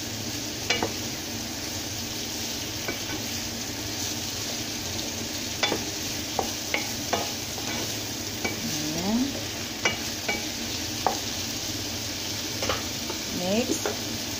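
Zucchini strips and sliced onion sizzling as they fry in a pan while being stirred, the utensil clicking against the pan now and then.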